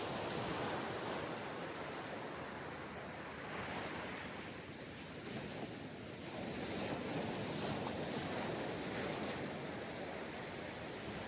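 Ocean surf washing onto a sandy beach, a steady wash of water that swells and eases as waves come in, with a larger wave about six seconds in.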